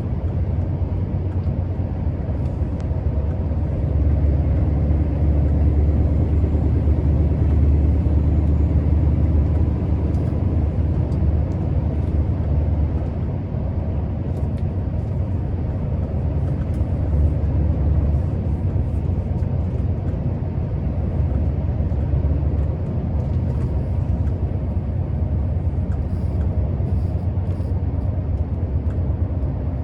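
Scania R650's 16-litre V8 diesel truck engine running on the road, a steady low drone with road rumble. It swells for several seconds a few seconds in and again briefly past the middle.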